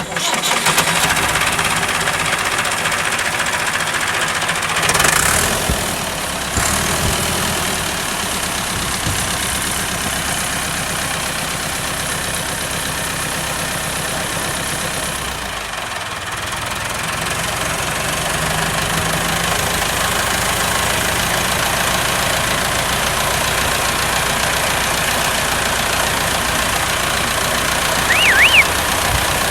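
A small engine or motor running steadily, with a short warbling horn-like tone near the end.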